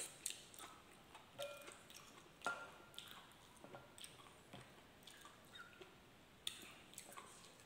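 Faint chewing of a mouthful of rice and chorizo: scattered wet mouth clicks and lip smacks, irregular, every half second or so.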